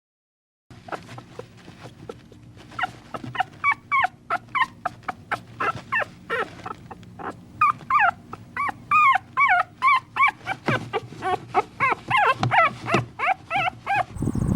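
Dog whimpering and yipping in a fast run of short, high, wavering calls, several a second. The calls begin a couple of seconds in and keep going until just before the end.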